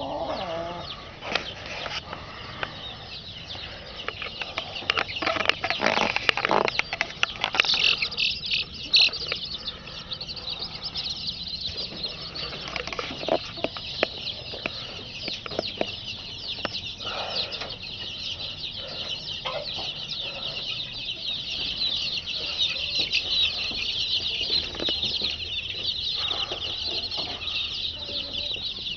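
A large flock of chickens calling all at once: a dense, continuous high-pitched peeping chatter with clucks, and bursts of wing flapping and louder sudden sounds about 5 to 9 seconds in.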